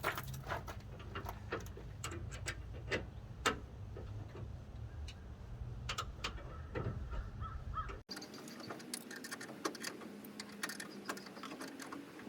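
A wrench tightening the U-bolt nuts on a hitch extension, making scattered sharp metal clicks and clinks. A low steady hum runs under the first part and drops away suddenly about two-thirds of the way through.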